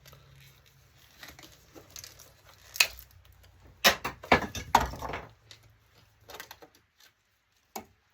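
Clicks and knocks of plastic monitor housing parts being handled and pried apart, with a few louder knocks in a cluster around the middle.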